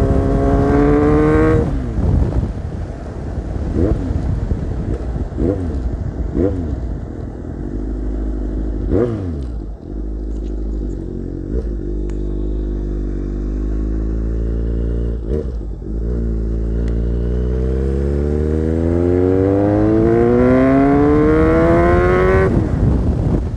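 Kawasaki Z800 inline-four with an SC Project aftermarket exhaust. It pulls high at the start and drops off about two seconds in, then gives several quick throttle blips and runs low for a while. About 16 seconds in it begins a long pull, rising steadily in pitch for about six seconds, and cuts off sharply near the end.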